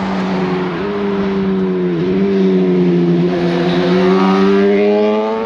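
Sport motorcycle engine coming along the road, one steady engine note with two brief dips in pitch about one and two seconds in, then rising and growing louder toward the end.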